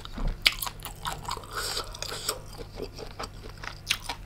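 Close-miked chewing and biting of giant tiger prawn meat, with crunches and wet mouth clicks; the sharpest crunch comes about half a second in and another near the end.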